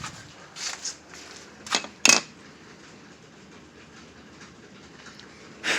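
A few short clacks and rustles of objects being handled on a table, the sharpest and loudest about two seconds in, with another near the end.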